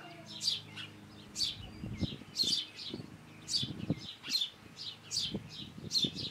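Small birds chirping: short, high calls repeating about two to three times a second.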